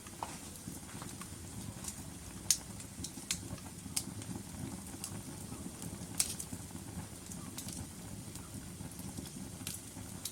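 Log fire in a fireplace crackling: a steady low rustle of flames with scattered sharp pops, the loudest about two and a half seconds in.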